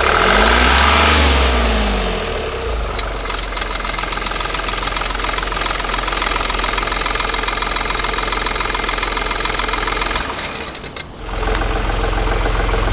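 Opel Astra K's three-cylinder turbo diesel (D15DVH) revving briefly and settling back, then idling with a fast, even clicking from the drive-belt pulley, the sign of a knocking pulley. Around eleven seconds in the sound drops away briefly and comes back deeper.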